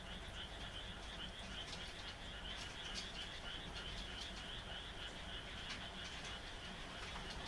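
A chorus of frogs calling at night: a steady, fast-pulsing high trill of overlapping calls, with rain falling over it and scattered drips ticking throughout.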